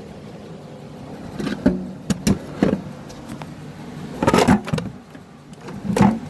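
Small metal tools clinking and rattling as a set of Allen (hex) keys is rummaged through: scattered sharp clinks over several seconds, with a cluster a little past the middle, over a steady low hum.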